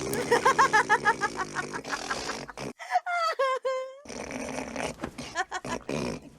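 Laughter in quick, even pulses, followed by short pitched voice sounds.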